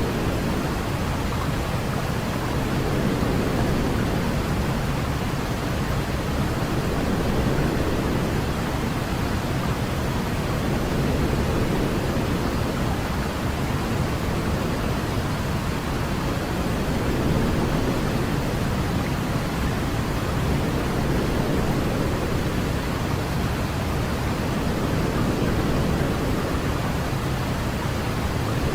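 White noise for lulling a baby to sleep: a steady, deep hiss weighted toward the low end, swelling gently about every four to five seconds.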